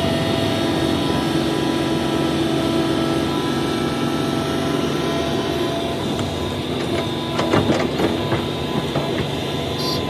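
Hitachi ZAXIS 350H excavator's diesel engine running steadily under work, with a short burst of knocks and clatter about seven and a half seconds in.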